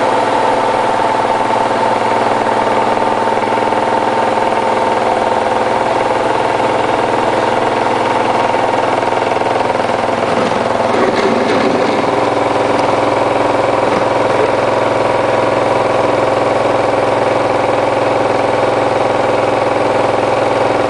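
Hotpoint Ultima WT960 washing machine spinning a load of mats: its motor gives a steady hum and whine. The sound turns rougher and noisier for a moment about halfway through.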